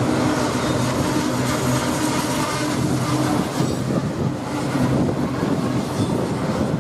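Freight train cars rolling past on the track, a steady rumble and clatter of wheels on rail; a low steady hum underneath fades out about halfway through.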